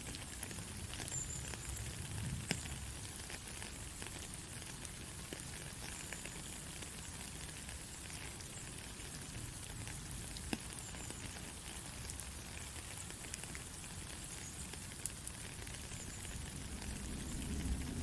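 Steady rain falling, an even hiss with scattered sharper drops ticking, and a low rumble that swells near the end.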